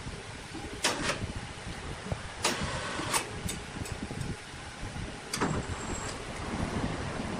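Woodworking machinery running steadily, with a few sharp knocks or clacks about a second apart.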